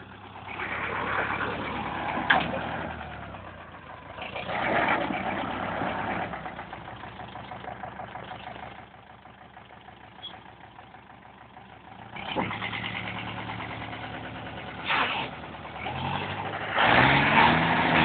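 Forestry tractor engine running, revving up and easing back several times, with a rising and falling pitch near the end. Two sharp knocks sound, about two seconds in and again near the end.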